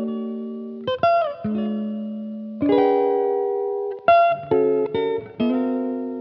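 Background music: guitar chords struck one at a time and left to ring out, a new chord every second or so.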